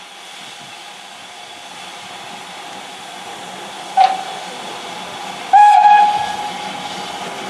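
Steam locomotive whistle: a brief toot about four seconds in, then a longer, louder blast a second and a half later that fades away, over a steady hiss.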